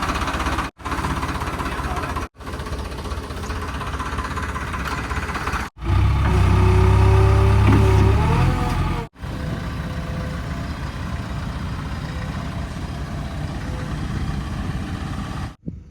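Diesel engines of heavy earthmoving machinery running, heard in several short clips joined by abrupt cuts. The middle clip is louder, with a deep rumble and a steady tone that rises near its end.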